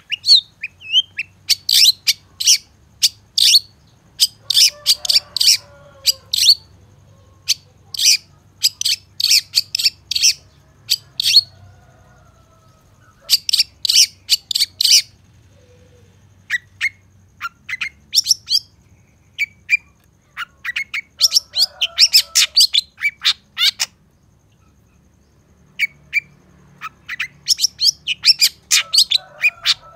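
Long-tailed shrike (cendet) singing: phrases of rapid, sharp, high chirping notes a second or two long, with short pauses between them and a longer pause about three-quarters of the way through.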